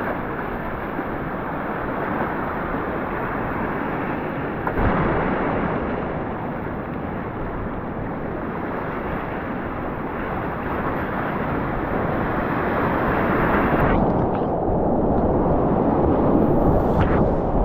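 Whitewater rapids rushing and crashing, a dense steady noise of churning water. About fourteen seconds in, the sound turns muffled.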